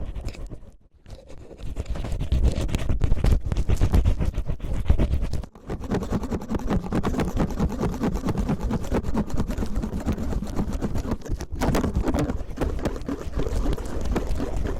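Cellophane crinkled and rubbed right against the microphone, imitating rough ear cleaning: a dense crackle with a deep rumble, which dips briefly about a second in and again around five and a half seconds.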